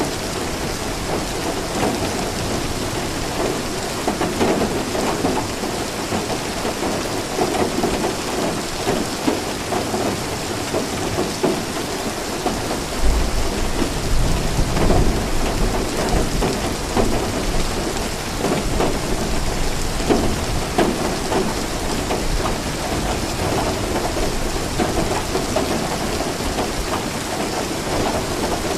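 Steady rain falling, with a low roll of thunder a little before halfway through that rumbles for several seconds.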